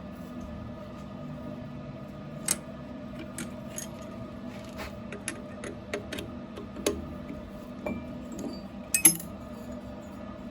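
Small metal parts and tools clinking and tapping against one another in scattered single strikes, the sharpest a quick double clink about nine seconds in, over a steady hum.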